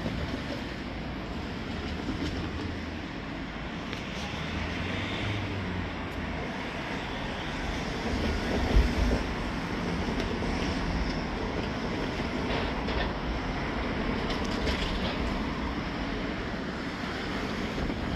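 A train running along the track, a steady rumbling rolling noise with one sharp thump about nine seconds in.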